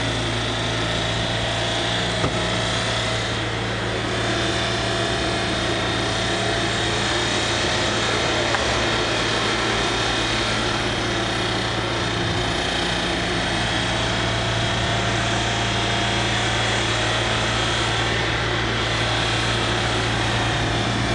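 BMW X5 engine running flat out at a steady, very high speed without letting up, while the failing engine pours out thick smoke.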